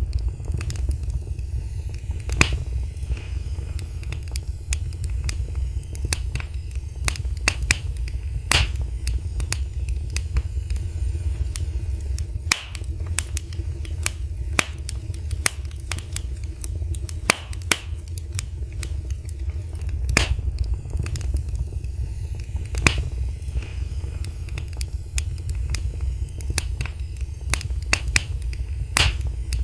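Wood fire in a fireplace crackling: irregular sharp pops and snaps, a few louder than the rest, over a steady low rumble of the burning fire.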